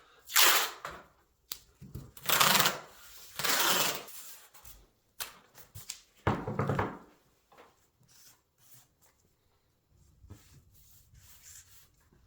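Workshop handling sounds: clatters, knocks and scrapes of tools and motorcycle parts on a bench, in a few loud bursts of about a second each during the first seven seconds with sharp clicks between, then only faint knocks.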